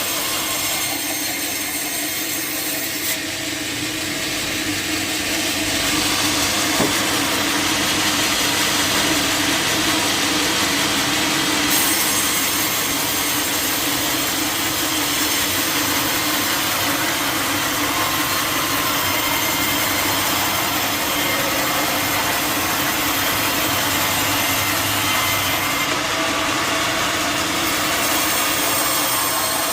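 Sawmill saw cutting through a teak log: a steady, dense cutting noise over a constant machine hum, a little louder from about six seconds in.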